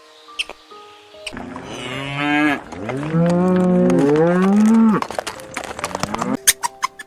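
Domestic cow mooing: a shorter call, then a long, drawn-out moo that rises in pitch, over soft background music.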